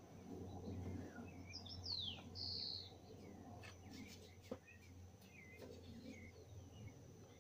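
Birds calling: a quick falling whistle about two seconds in, a short high note right after it, and a few small chirps later. A single sharp click about halfway through.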